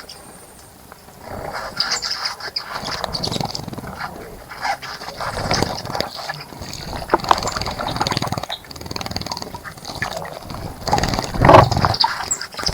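A bird splashing and fluttering in a bird bath: irregular bursts of splashing water that start about a second in, with the loudest splash near the end.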